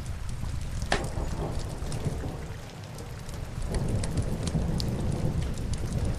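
Steady rain on window glass, with sharp scattered ticks and crackles from a wood fire. A low rumble swells up about two-thirds of the way through.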